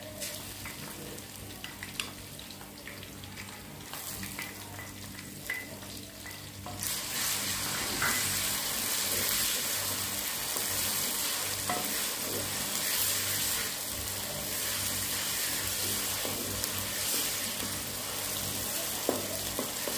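Ginger-garlic paste and browned onions frying in hot ghee in a metal pot, stirred with a wooden spoon that clicks and scrapes against the pot. The sizzle grows much louder about seven seconds in.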